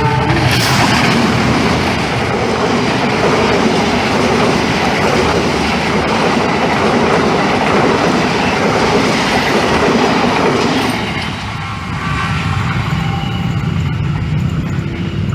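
A passenger train passing close by at speed: a steady loud rumble and clatter of wheels over the rail joints, easing briefly about eleven seconds in.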